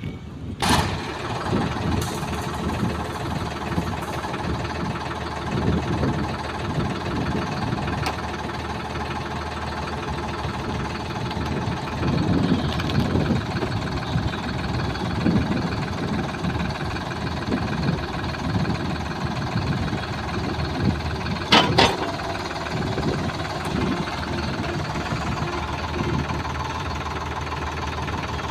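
Tractor engine running steadily while working a three-point-linkage pan mixer, with two sharp metallic clanks, one just after the start and one about three quarters of the way through.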